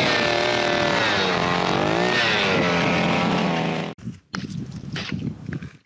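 Petrol ice auger (motor auger) drilling through lake ice, its engine pitch rising and falling under load, then cut off abruptly about four seconds in. Afterwards come irregular wet, slushy sounds from the freshly drilled hole.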